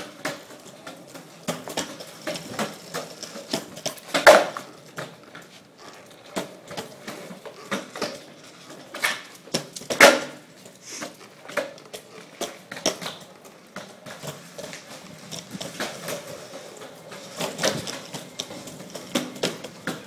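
Longboard clattering on pavement during shuvit attempts: repeated knocks and clacks of the deck and wheels landing and rolling, the loudest two about four seconds in and about ten seconds in.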